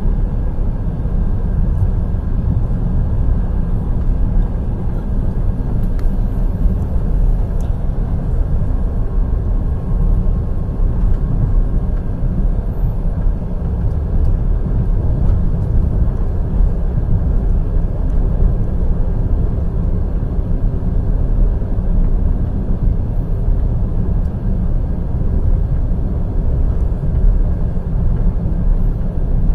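Wheels of a night express passenger train running on the rails at speed, a steady low rumble without clear rail-joint clacks.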